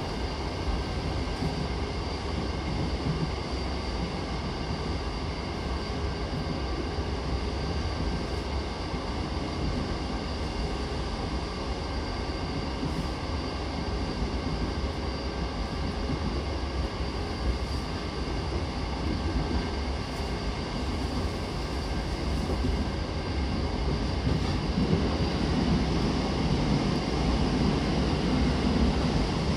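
Interior running noise of a JR East E233-7000 series train with Mitsubishi IGBT-VVVF, heard inside the passenger car: a steady rumble of wheels on rail with a few faint steady high tones over it. It grows louder near the end.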